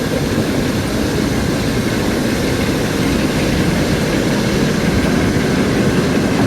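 Heavy diesel locomotive engine running steadily at low revs, a deep, even rumble.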